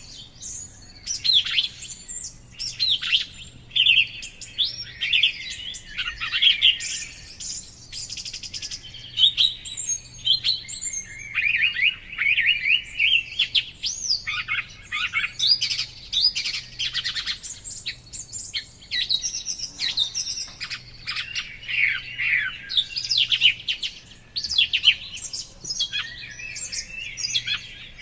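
Several songbirds singing and chirping at once, a dense chorus of quick, overlapping trills and chirps without pause.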